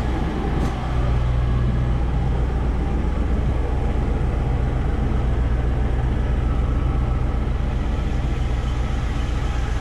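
Range Rover Classic V8 idling steadily through its newly fitted exhaust system, heard from behind the car at the tailpipe.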